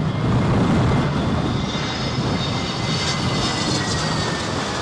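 Jet airliner passing close on its landing approach: a steady rumble of the engines, loudest about a second in, with a high whine that slowly falls in pitch.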